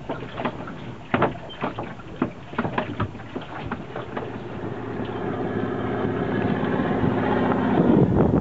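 Irregular knocks and clatters, then from about halfway a motor's steady drone that grows louder toward the end.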